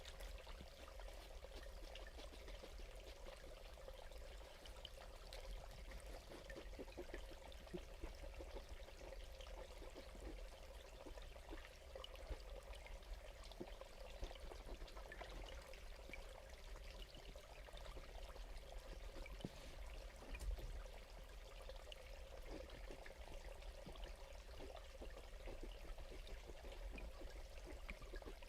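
Water trickling steadily, with many small splashes throughout and a low rumble beneath.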